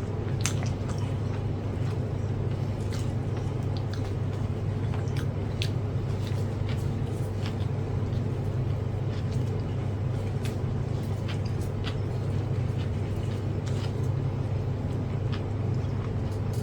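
Steady low hum under scattered small clicks and wet mouth sounds of someone chewing food.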